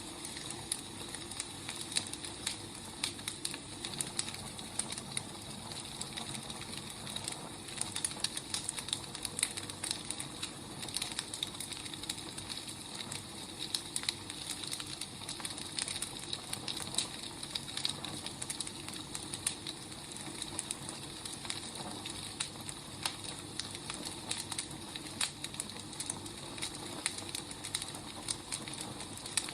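Wood fire burning steadily, a soft hiss with many small sharp pops and crackles scattered throughout.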